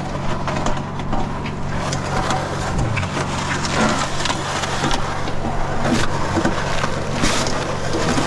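Engine-driven concrete mixer running steadily, with irregular gritty scraping and clatter of wet concrete and stones being churned and worked.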